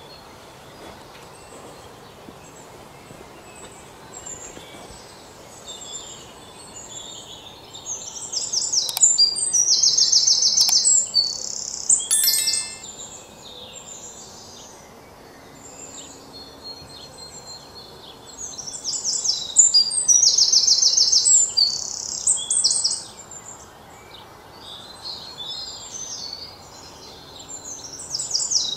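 A songbird singing in long bouts of fast, repeated high notes, with quieter chirps from other birds in between.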